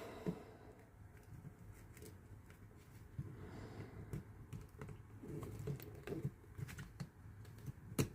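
Silicone mold pieces being handled and pressed together: faint scattered taps, clicks and rubbing, with one sharper click near the end.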